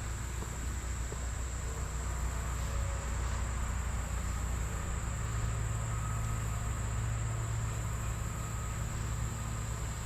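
Steady high-pitched drone of insects, with a low even rumble underneath.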